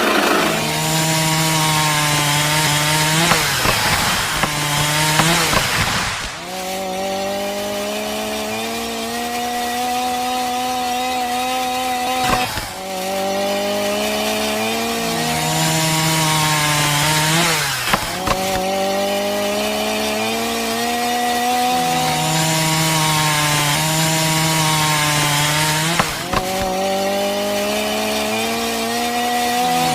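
Small electric motor whining under changing load, its pitch sagging and recovering and jumping between speeds every few seconds, with short breaks about 6, 12, 18 and 26 seconds in.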